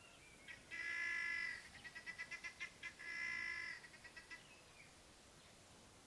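A bird calling: a held call about a second in, then a quick run of short repeated notes, a second held call, and a few fading notes, over faint outdoor background.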